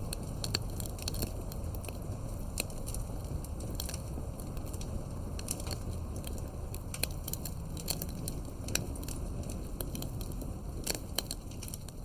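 Campfire firewood burning: a steady low rumble of flame with frequent sharp, irregular crackles and pops from the wood.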